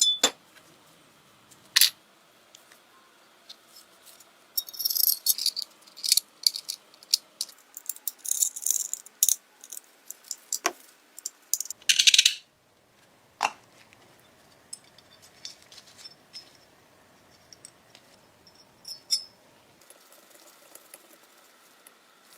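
Small metal pistol parts clicking and clinking as they are handled, with a run of rapid rattling clinks a few seconds in and a short loud hissing burst near the middle.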